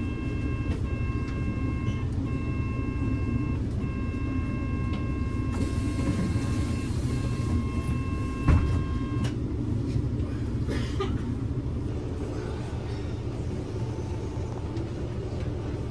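Inside a Kyoto City bus: a steady low rumble of engine and road, with a steady high tone of several pitches that stops about nine seconds in. A hiss sounds about six seconds in, and a single loud thump about eight and a half seconds in.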